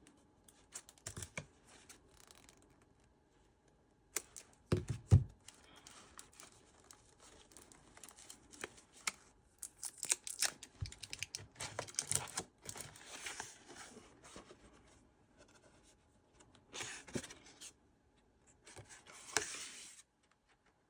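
Packaging crinkling and tearing in irregular spurts as a pack of paper journaling cards is opened and handled, with a couple of dull knocks about five seconds in.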